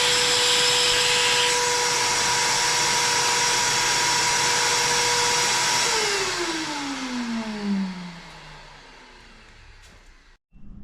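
A corded power tool's motor runs steadily with a whine, then is switched off about six seconds in and winds down, its pitch falling as it fades.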